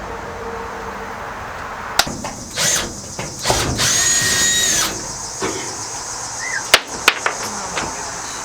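Power drill running in one short burst of about a second and a half, with a steady whine, between a few sharp knocks and clicks.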